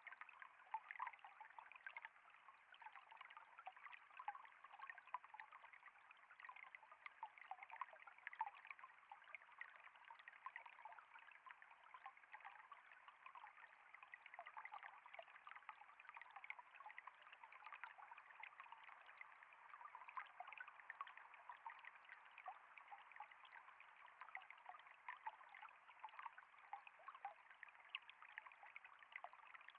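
Faint, steady trickling of flowing water, with many small splashes and drips spread evenly throughout.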